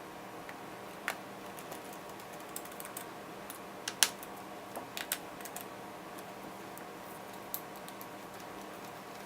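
Scattered single key clicks from the keyboard of a 2015 13-inch MacBook Pro Retina, pressed one at a time, with the loudest about four seconds in, over a steady faint hum.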